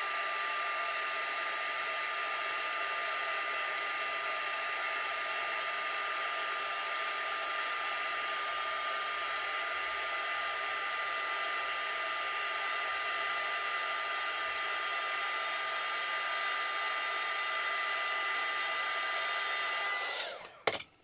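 Heat gun blowing steadily, with a steady high-pitched whine over its airflow, heating the iPad glass over the home button. It cuts off near the end, followed by a couple of clicks.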